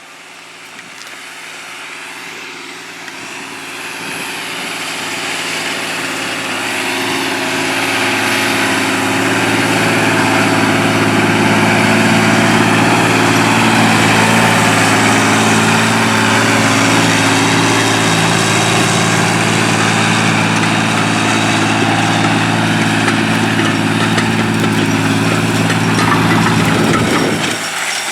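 John Deere 8300 tractor's six-cylinder diesel engine running steadily while pulling a cultivator, growing louder over the first ten seconds and then holding level. Near the end the low engine note drops away abruptly.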